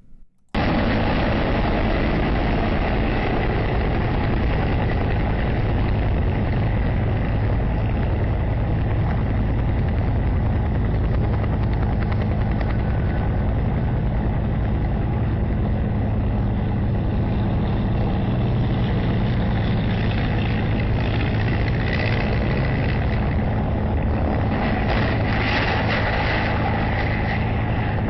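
Steady engine and rotor drone of aircraft at a small airfield, a helicopter among them, with added rough, rattly noise coming in from about twenty seconds in.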